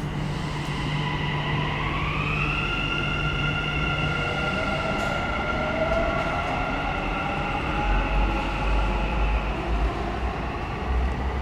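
Dubai Metro train running on electric traction motors, their whine rising in pitch as it picks up speed and then holding steady, over a low rumble.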